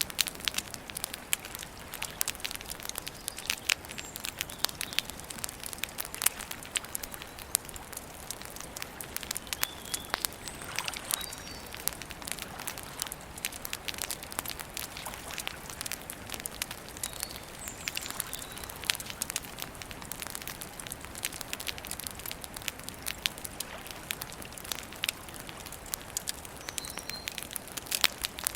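Wood campfire crackling, with irregular sharp pops several times a second over a soft steady hiss. A few faint short bird chirps come now and then.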